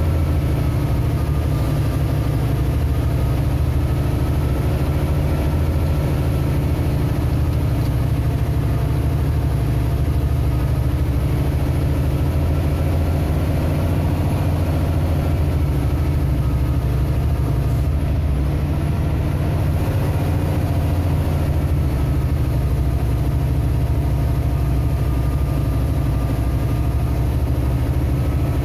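Vehicle engine running steadily under a heavy low drone, its pitch drifting slowly up and down.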